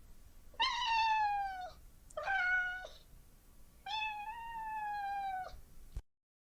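A domestic cat meowing three times, the third call the longest, the first and last sliding down in pitch.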